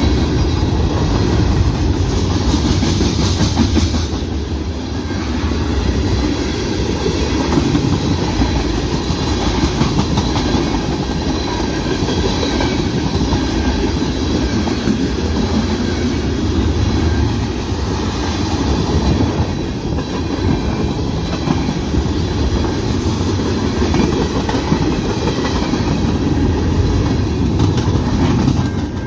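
Canadian National mixed freight train cars rolling past at close range: a steady, loud rumble and clatter of steel wheels on the rails.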